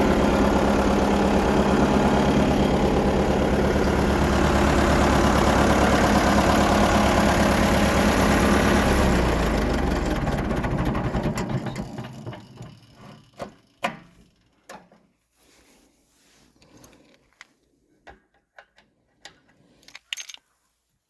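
1959 Fordson Power Major's four-cylinder diesel engine running steadily, then shut off about nine seconds in and running down to a stop. Afterwards a few scattered light clicks and knocks.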